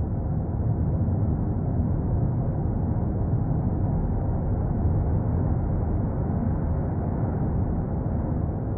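Steady low rumble with no distinct events, even in level throughout.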